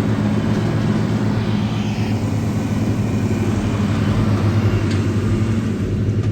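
An engine running steadily at a constant speed, a loud even low hum with no revving.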